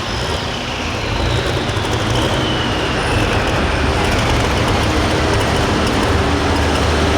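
Turbocharged diesel engine of a light limited super stock pulling tractor running loud and hard, with a deep rumble under a wide roar. A thin high whine falls in pitch over the first few seconds.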